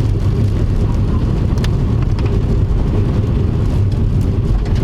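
Car driving, with a steady low rumble of road and engine noise heard from inside the cabin.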